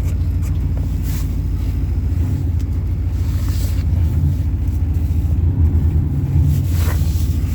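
1988 Chevy 1500's 350 V8 running steadily with an even low rumble, shortly after a cold start in sub-zero weather.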